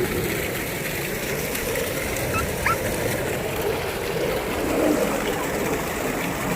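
Steady outdoor background noise, with a brief high chirp about two and a half seconds in.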